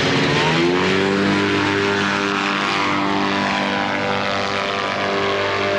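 Kolb ultralight aircraft's engine and propeller running. The pitch rises over the first second, then holds steady.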